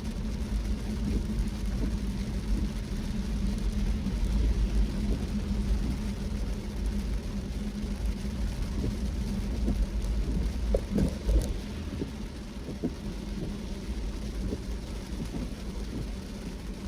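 A car driving in the rain: a steady rumble of engine and tyres with a constant low drone. A cluster of short, light ticks comes about ten to eleven seconds in.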